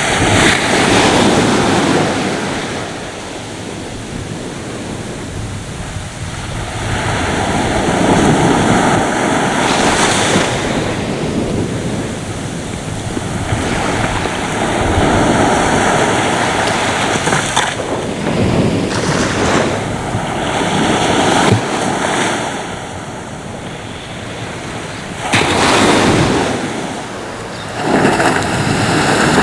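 Ocean waves breaking on a shore in repeated surges, each rising to a crash and washing back, with louder breaks about ten seconds in, near eighteen seconds and twice near the end.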